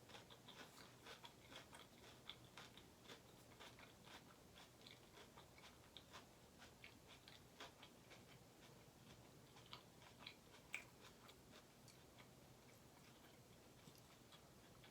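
Faint chewing: soft, irregular little mouth clicks from eating butter chicken with rice and naan. The clicks are denser in the first half and thin out later.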